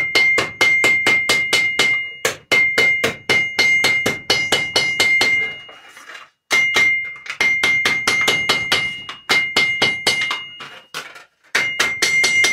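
Hammer beating flattened tin-can metal on a steel anvil to flatten it out. Quick repeated blows come about four or five a second, each leaving the anvil ringing on a steady high note, with short pauses between runs of strikes.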